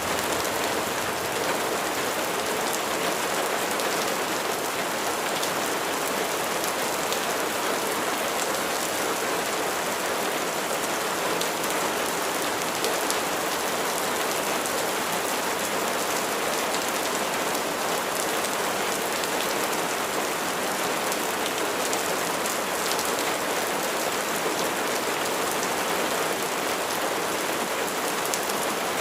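Steady heavy rain falling on a surface, an even hiss of drops with fine patters in it and no change in strength.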